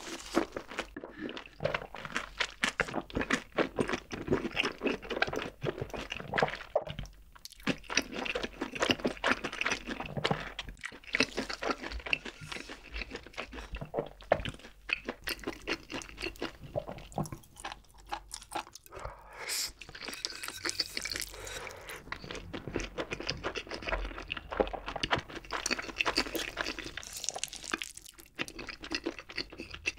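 Close-miked chewing of a mouthful of fried chicken, with irregular crunches of the crust and wet mouth sounds.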